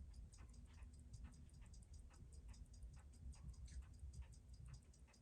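Faint, even ticking of a freshly serviced Seiko 6139 automatic chronograph movement, about six beats a second, running with very good timegrapher numbers and a touch of beat error.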